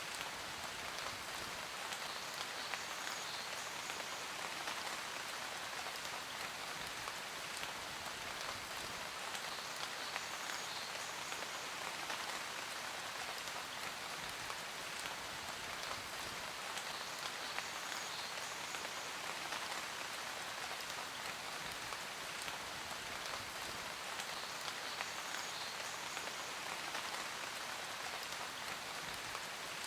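Steady rain falling on a surface, a dense, even patter of drops that does not change.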